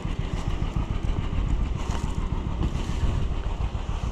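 Farm tractor engine running steadily, a low even chugging.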